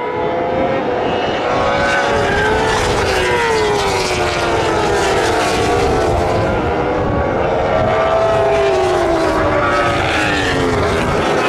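Several superbike and supersport racing motorcycles at high revs going past one after another. Their overlapping engine notes glide up and down, mostly falling in pitch as each bike passes.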